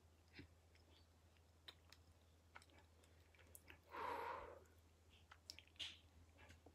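Faint close-up chewing: soft, scattered mouth clicks from a closed-mouth chew, with one short breath blown out through pursed lips about four seconds in.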